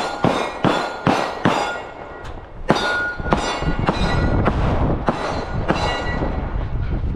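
A string of gunshots: five quick shots, a pause of about a second, then about ten more at a steady pace. Several are followed by a short metallic ring.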